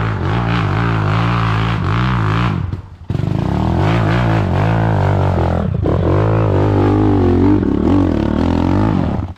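Dirt bike engine running loudly with the throttle working up and down, briefly dropping away about three seconds in, then cutting off abruptly at the end.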